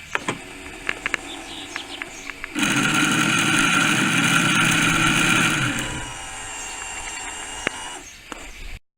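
A few clicks, then the small motor of a model boat's outboard runs with a loud steady whine for about three seconds, drops to a quieter hum with slightly falling pitch, and cuts off just before the end.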